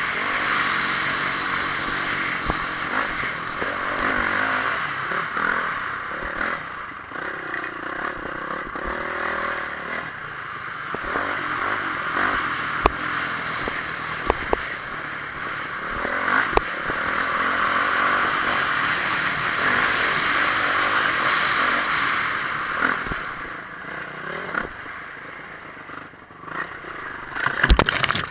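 Honda CRF450R motocross bike's single-cylinder four-stroke engine revving up and falling back over and over as it is ridden hard round a track, with sharp knocks now and then. The sound cuts off suddenly at the end.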